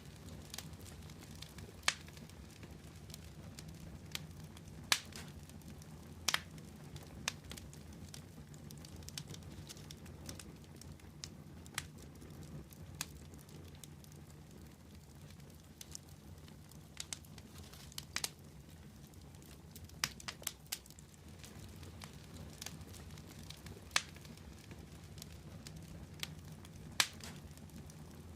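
Fire crackling, with irregular sharp pops every second or so over a steady low rumble.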